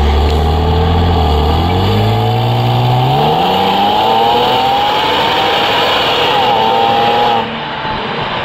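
2008 Cadillac CTS4's V6 engine under hard acceleration, its pitch climbing steadily for several seconds with a brief dip about six and a half seconds in. The sound drops away abruptly near the end.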